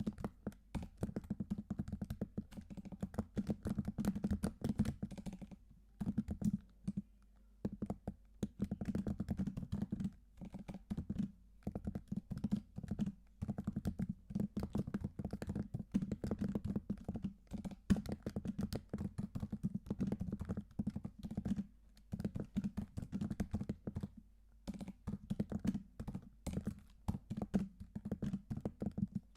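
Computer keyboard being typed on in fast runs of key clicks, broken by short pauses every few seconds.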